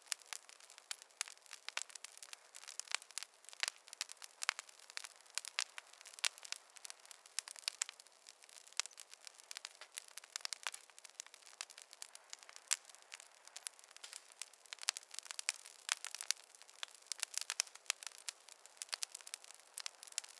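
Campfire crackling: a steady run of small, irregular pops and snaps over a faint hiss, with no low rumble.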